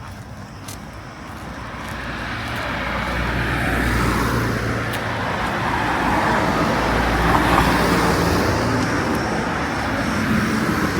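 A motor vehicle's engine growing louder over the first four seconds as it comes close, then running steadily and loudly.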